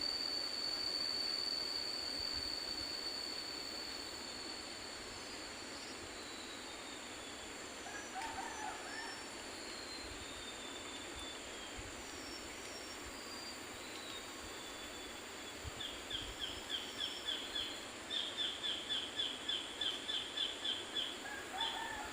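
Tropical forest ambience: a steady high whine fades away over the first few seconds under a soft even hiss, with scattered short falling bird whistles. Near the end a bird calls in a quick run of repeated notes, about three or four a second.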